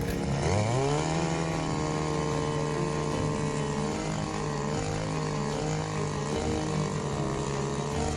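A small engine or power tool speeds up over the first second, then runs steadily at high speed with slight wavers in pitch.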